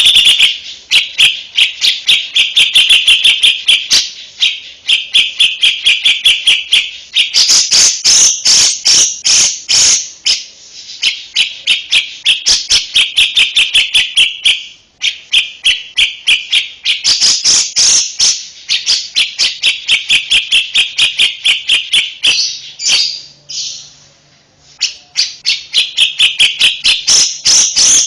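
Songbird master recording: a small bird sings loud, rapid chattering phrases of fast-repeated high notes, broken by short pauses. This kind of song is played to caged songbirds such as murai batu, kacer and cucak ijo so they learn it.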